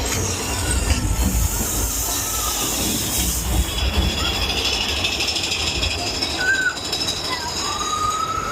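Mine-train roller coaster running along its track: a steady low rumble and rattle with a hiss over it. A few short high rising calls come in near the end.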